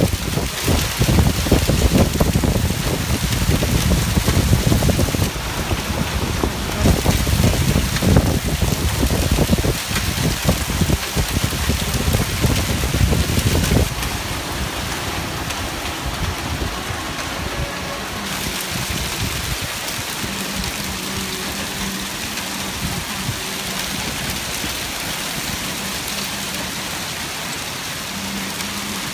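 Heavy rain pouring down as a steady hiss. For about the first half, loud uneven low rumbling lies over it, then it drops to a steadier, softer downpour.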